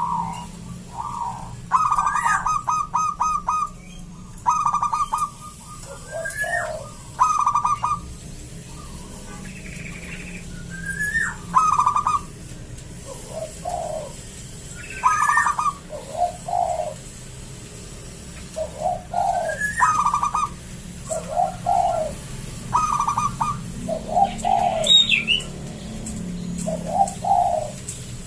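Zebra dove (perkutut) cooing: short phrases of quick stuttering coos repeated every second or two, many opening with a brief rising note, the later ones lower in pitch. A faint steady hum sits underneath.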